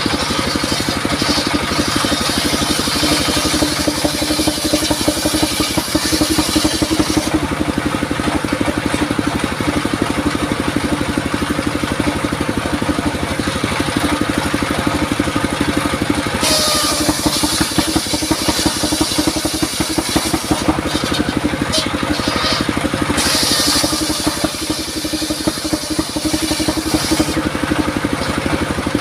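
Engine-driven circular saw running steadily, its motor droning throughout. Three stretches of high-pitched hissing come and go as the blade cuts through durian wood.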